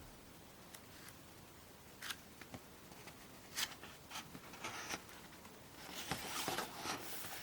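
Small paper booklets being handled and their pages turned: a few short crisp rustles, then a longer, louder rustle of paper from about six seconds in.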